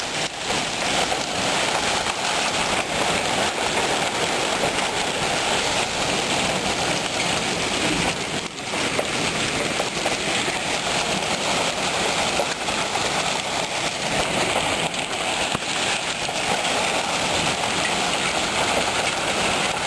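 Hail and heavy rain pelting down in a dense, steady clatter of countless small impacts, sounding like popcorn.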